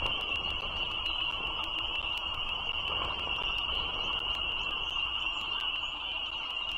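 Dense frog chorus: a steady, unbroken high-pitched peeping that holds at one pitch and never lets up, with faint regular clicks over it.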